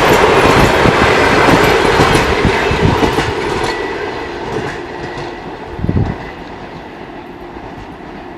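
Passenger train coaches rolling past, their wheels clacking over rail joints, the sound fading away as the end of the train passes and recedes. A short low rumble comes about six seconds in.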